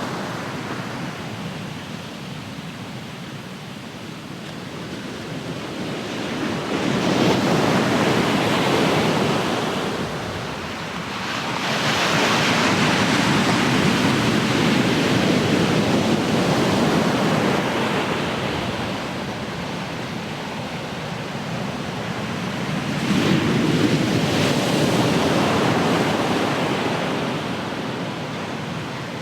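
Ocean waves breaking and washing ashore. Three surges swell and ebb, starting about 7, 12 and 23 seconds in and each lasting several seconds.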